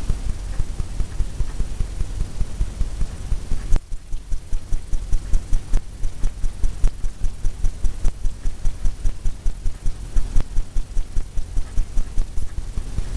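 A paint brush tapping rapidly against a stretched canvas, about four to five taps a second, with a brief pause about four seconds in. This is the wet-on-wet technique of tapping foam into a crashing wave.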